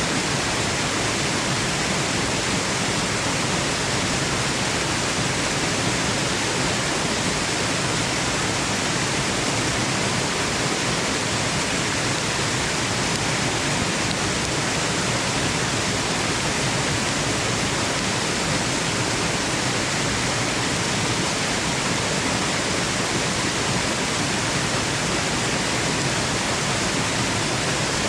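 Waterfall noise, a steady, even rush of falling water with no change, used as white noise for sleep.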